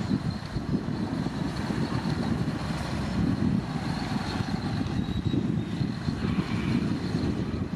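Komatsu D65P bulldozer's diesel engine running steadily, a continuous low rumble with a faint high whine above it.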